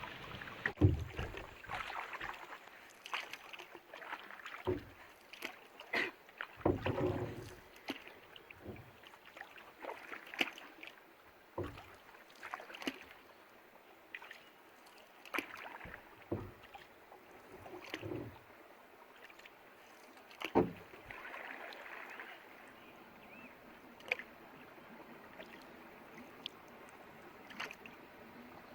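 Canoe paddles dipping and pulling through the water in uneven splashing strokes, one every second or two. A few sharper knocks stand out among them, the loudest about a second in and again about two-thirds of the way through.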